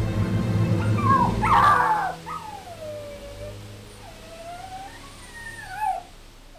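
A puppy whining and whimpering in a series of drawn-out cries that fall in pitch, over music that fades out about two seconds in.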